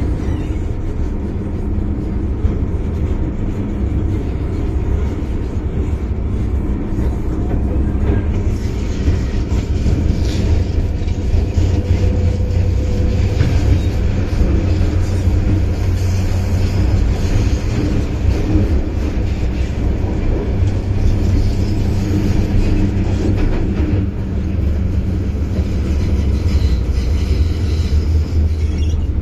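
MTR Kwun Tong Line M-Train heard from inside the carriage while running: a steady low rumble of wheels on rail with a hum from the running gear, and more hiss through the middle stretch.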